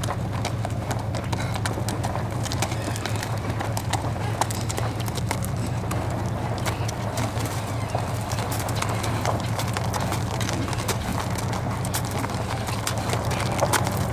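Hooves of a Standardbred stallion clip-clopping in a dense, steady run of strikes at speed, over a steady low rumble.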